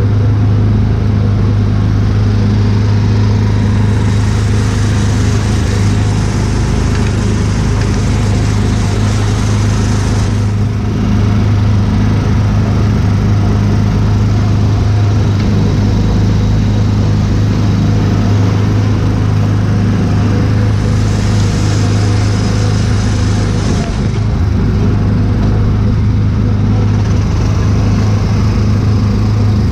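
Small gasoline engine of an Autopia ride car running steadily at cruising speed, heard from the driver's seat, with an even, unchanging engine note.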